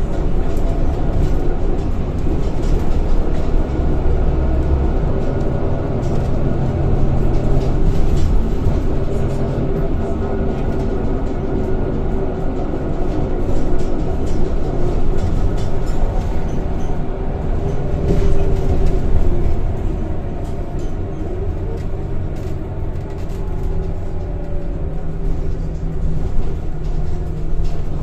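Scania K230 single-deck bus heard from inside while under way: the diesel engine drones steadily, with a faint whine from the ZF automatic gearbox that slowly rises and falls in pitch.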